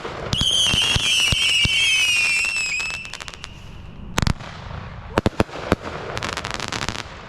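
Consumer firework cake (Phantom Fireworks Deja Vu) firing: wavering whistles over rapid crackling for about three seconds, a heavy thump about four seconds in, then several sharp cracks and another spell of crackling.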